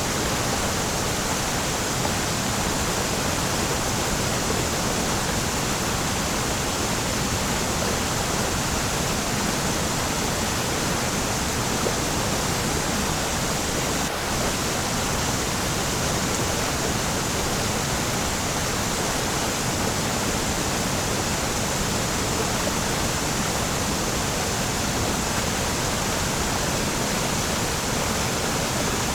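Waterfall: water falling and splashing in a steady, unbroken rush of noise, with no change throughout.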